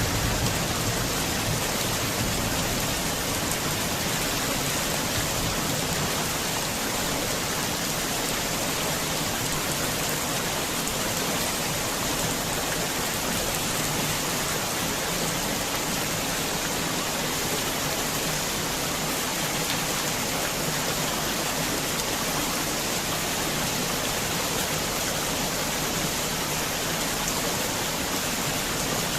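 Heavy rain falling in a steady, even downpour, with the tail of a low thunder rumble fading out in the first second.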